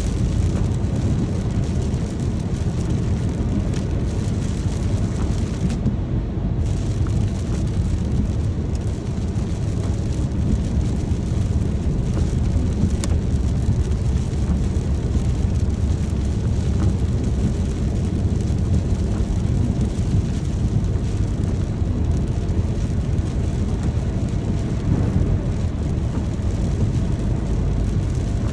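Steady rain with a constant low rumble underneath, unchanging throughout.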